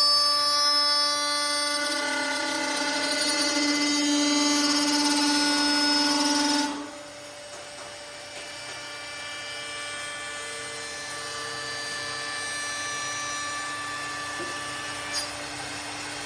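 CNC wood lathe running, with a steady pitched whine as the tool works the spinning wood. About seven seconds in it drops suddenly to a much quieter run.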